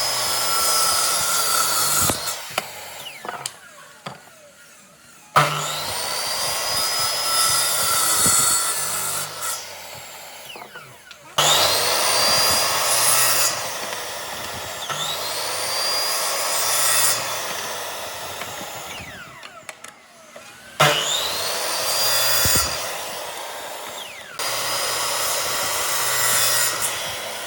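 Electric power tool cutting or shaping wood in repeated passes of a few seconds each, with short pauses between. The motor's whine rises as it spins up and changes as it bites into the wood.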